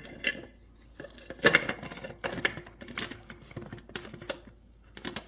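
Irregular knocks and clinks of hard kitchen items being handled and set down, the loudest strike about a second and a half in.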